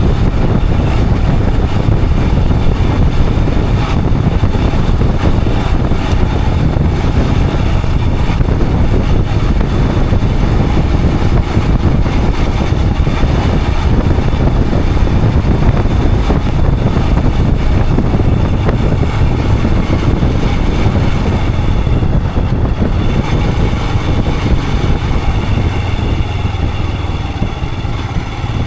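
Royal Enfield Himalayan 411's single-cylinder engine running while the motorcycle is ridden, mixed with wind rushing over the helmet-mounted action camera's microphone. The sound is steady and loud, easing off slightly near the end.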